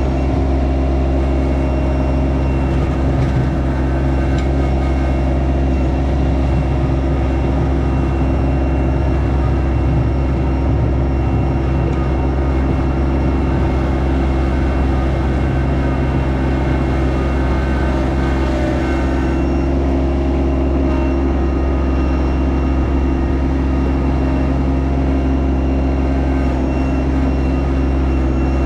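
Yanmar SA324 compact tractor's three-cylinder diesel engine running steadily at a constant speed.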